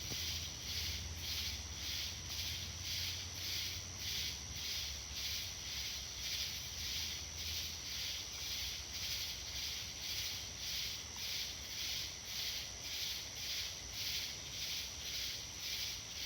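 Chorus of night insects calling steadily in an even pulsing rhythm, about one and a half pulses a second, over a sustained high shrill tone. A low hum underneath fades out about halfway through.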